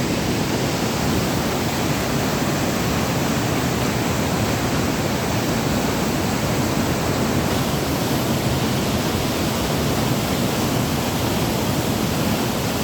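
Fast-flowing floodwater rushing, a steady, loud, even roar of water.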